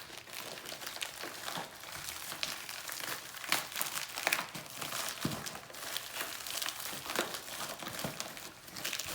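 Plastic and paper packaging of an AirPods box being handled and pulled at: irregular crinkling and crackling throughout, with a few sharper snaps.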